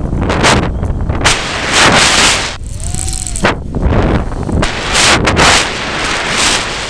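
Strong gusty wind buffeting the microphone: loud, irregular blasts of wind noise coming every second or so, with deep rumbling thumps between them.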